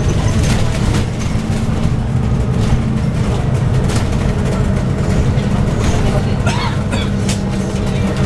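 Inside the cabin of a Scania N280UD bus under way: the Scania OC09 9.0-litre biogas engine and ZF Ecolife six-speed automatic drivetrain hum steadily. Rattles and knocks come from the bodywork, and the engine's tone steps about a second in.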